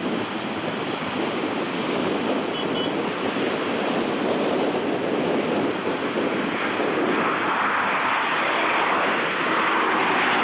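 Jet airliner engines, a steady rushing noise that grows brighter and a little louder from about two-thirds of the way through.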